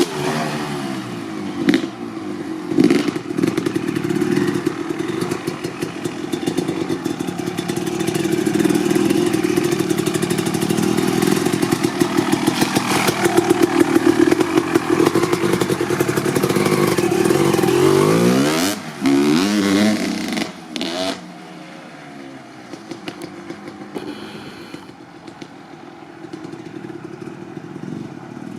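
Honda CR250R two-stroke single running, with a couple of sharp throttle blips and then held at higher revs for about ten seconds. Near the end the revs fall away and it runs much quieter.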